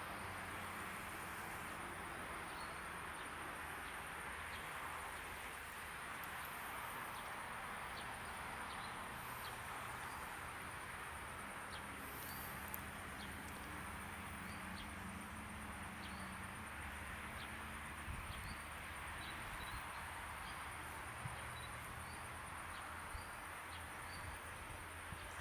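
Outdoor ambience: insects trilling steadily in a high, thin tone, with faint short bird chirps now and then over a low steady hum.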